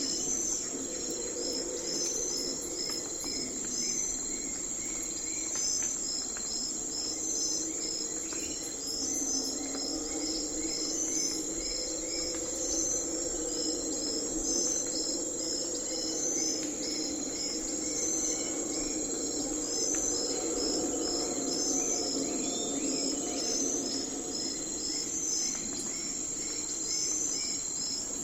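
Night-time forest ambience: crickets and other insects chirping, with a continuous high trill and rows of evenly repeated chirps above a low, steady noisy hum that swells and eases.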